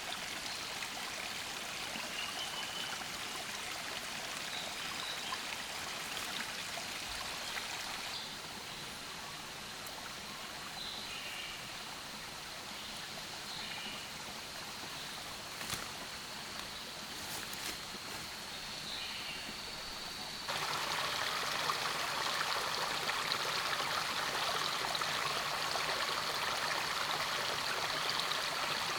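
Steady rush of running water that drops slightly about a third of the way in, then turns abruptly louder about two-thirds of the way through. A faint steady high tone and a few short high chirps sit above it.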